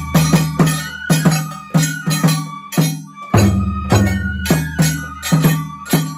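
Japanese festival music (matsuri-bayashi) played live: taiko drums beaten in a fast, uneven rhythm of heavy strikes, with a higher pitched melody line and metallic ringing over the drumming.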